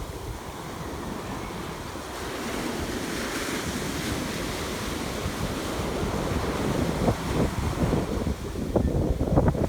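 Ocean waves washing onto a beach, one surge of surf building about three seconds in, with wind buffeting the microphone in gusts that grow stronger in the second half.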